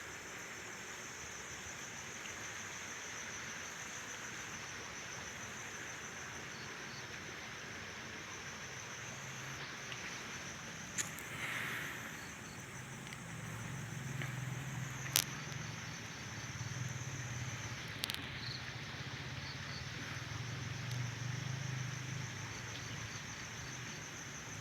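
Crickets chirping steadily in a continuous high pulsing trill. A low hum rises in the second half, and a few sharp clicks are heard, the loudest about two-thirds of the way through.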